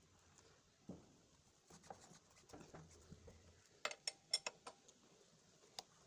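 Faint, sparse metallic clicks and clinks of a hand tool at work on a motorcycle wheel, with a quick run of five or six sharp clinks about four seconds in.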